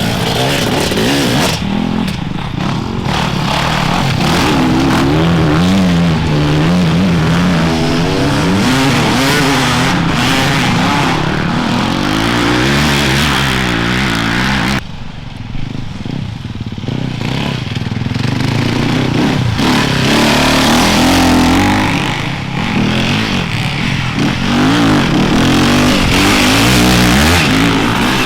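Off-road enduro motorcycle engines revving up and down as bikes ride through, the pitch rising and falling with the throttle. The sound drops suddenly about halfway through, then builds again as more revving comes in.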